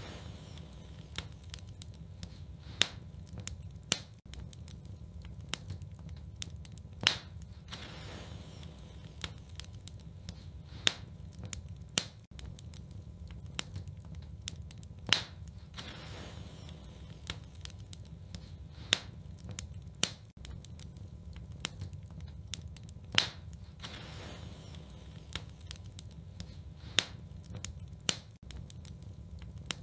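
Wood fire burning in a fireplace: irregular crackles and sharp pops, some much louder than the rest, over a steady low rumble.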